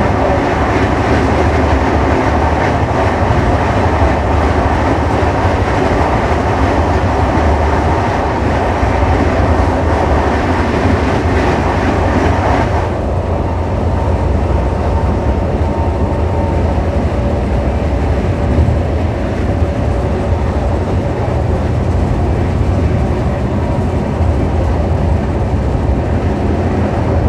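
Loud rush and rattle of a container freight train's wagons passing close alongside, heard from an open window of a moving passenger train. The passing noise cuts off sharply about thirteen seconds in, leaving the passenger train's own steady wheel-on-rail running noise.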